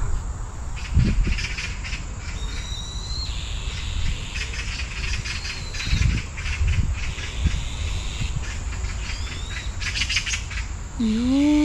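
Several birds calling to one another in the trees overhead: short high whistled notes and bursts of harsh chattering, loudest about ten seconds in, with the birds seemingly aiming their calls at a cat below. A few low thumps come about a second in and again around six to seven seconds in.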